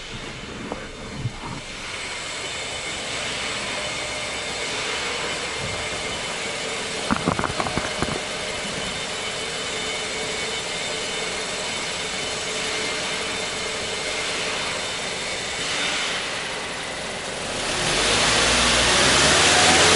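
Toyota Hilux Surf SSR-X engine and exhaust running steadily, with a quick cluster of knocks about seven seconds in. Near the end the engine revs up and its pitch rises.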